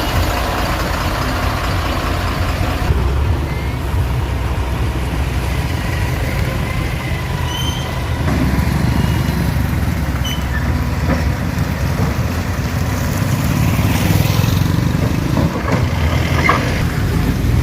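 Engine of a heavy motor vehicle running steadily, a continuous low rumble that grows a little stronger about halfway through.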